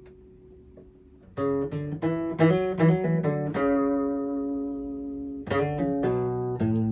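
Acoustic guitar picked and strummed without singing. After a faint, fading first second, notes are plucked from about a second and a half in, a chord rings out for a couple of seconds, and new chords are struck near the end.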